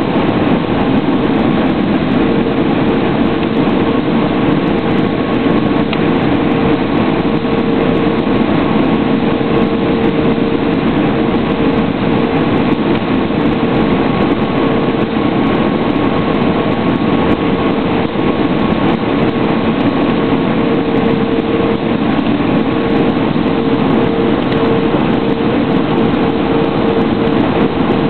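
Steady cabin noise of an Airbus A320 airliner in flight, heard from inside the cabin: a constant rush of air with a steady engine hum running through it.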